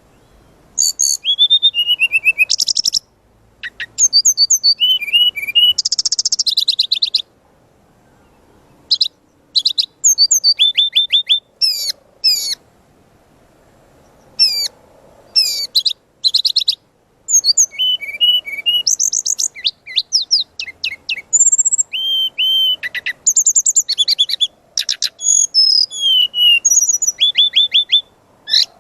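Brown-chested jungle flycatcher (SRDC) singing energetically: a long, varied run of quick chirps, rattling trills and high whistled notes. It comes in bursts broken by short pauses, with mimicked phrases packed into the song.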